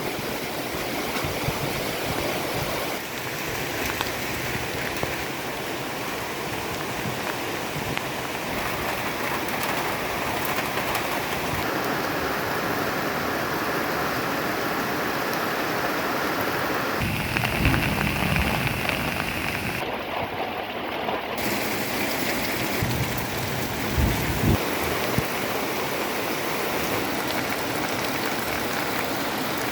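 Heavy rain pouring steadily, a dense hiss whose tone shifts abruptly every few seconds. A few low thumps stand out around the middle and again a little later.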